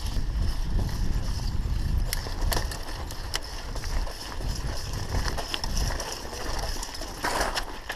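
Mountain bike riding over a rough dirt trail: low wind buffeting on the microphone, with the bike rattling in irregular sharp clicks and knocks over the bumps.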